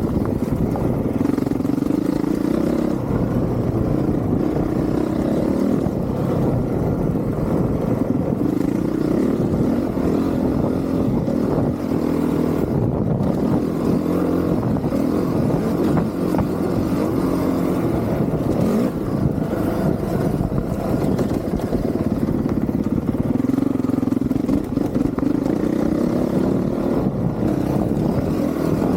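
Honda CRF450R's single-cylinder four-stroke engine on a motocross ride, its pitch climbing and dropping again and again as the throttle is opened and rolled off.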